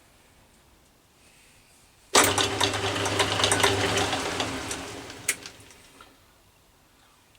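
Atlas 10 metal lathe starting abruptly and running with a steady hum and a busy clatter of gears and belt, then winding down over a couple of seconds, with one sharp knock near the end.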